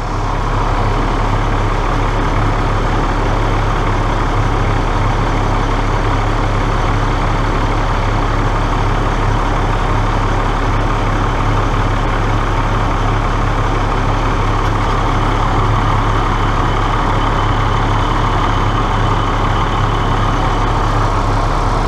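A heavy engine running steadily with a constant low hum, from the crane or chipper working on the tree job.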